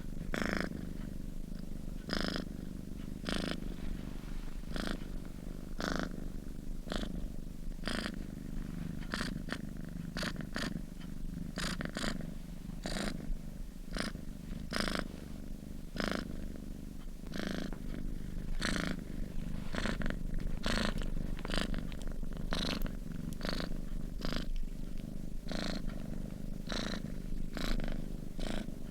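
A sleeping cat purring: a steady low rumble that swells briefly about once a second with its breathing.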